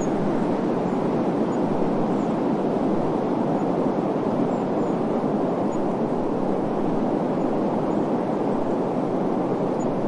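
Steady desert wind ambience: an even, low rushing noise with no gusts or breaks.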